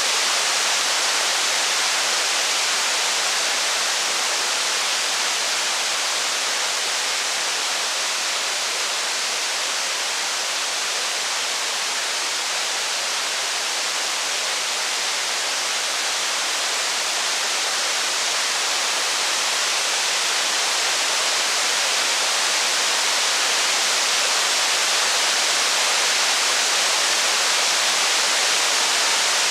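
Steady heavy rain: an even hiss with no distinct drops, crackles or thunder standing out.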